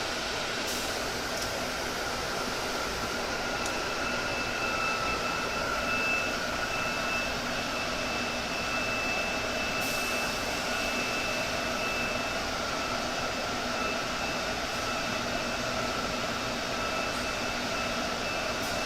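Steady whirring of a small fan or blower, with a thin high whine joining about four seconds in.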